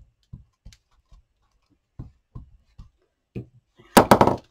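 Soft, short clicks and taps about every half second from handling craft materials on a table, then a louder clatter of several quick knocks about four seconds in.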